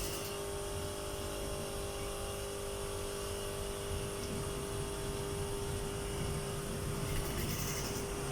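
Steady hum of garment-factory machinery, with one constant mid-pitched tone over a low rumble.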